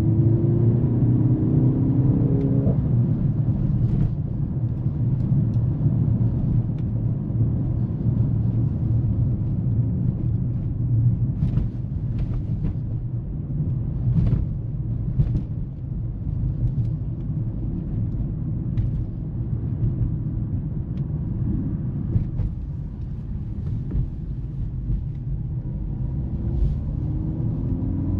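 Mercedes-AMG GLC 43's turbocharged four-cylinder engine and road noise while driving. The engine note shifts in pitch in the first few seconds, settles into a steady low drone, and rises again near the end as the car accelerates.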